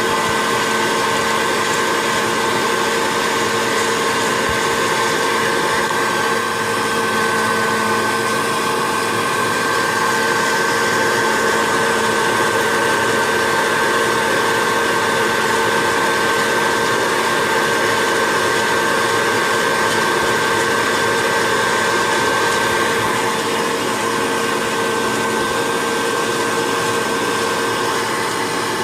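Hot-air popcorn popper used as a coffee roaster, its small fan motor blowing steadily with a constant whine over a rushing hiss.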